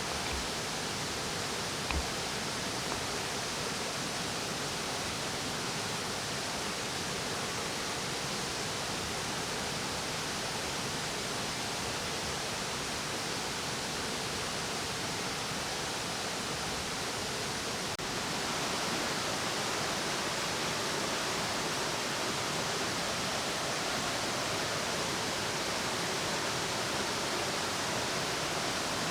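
A steady, even rushing noise that steps up slightly about eighteen seconds in, with a single faint click about two seconds in.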